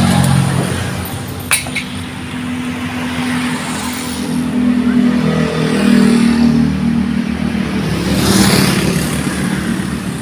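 A motor vehicle engine running steadily. There is one sharp knock about a second and a half in.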